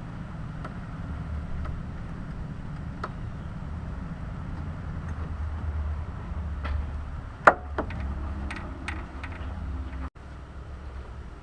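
A few sharp clicks and knocks of hand work on a car's engine bay over a steady low rumble; the loudest knock comes about seven and a half seconds in.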